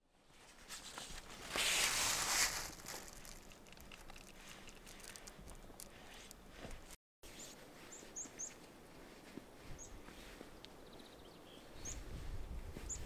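Quiet outdoor ambience. A brief hissing rush comes about two seconds in. Later there are faint, very high, short chirps from small birds, a handful scattered through the second half, and a low rumble builds near the end.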